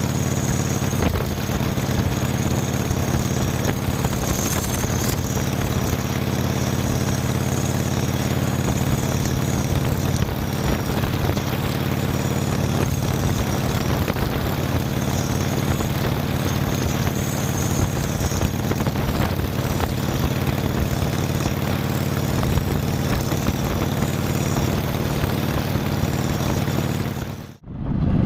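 Motorcycle engine running steadily under way, mixed with a constant rush of wind noise. The sound cuts out abruptly near the end and a different low rumble follows.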